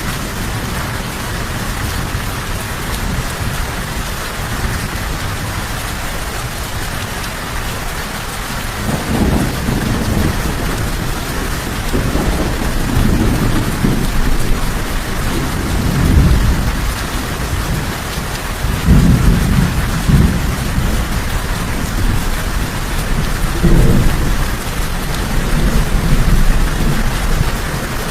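Steady heavy rain hissing, with low rolling thunder rumbles that begin about a third of the way in and swell several times.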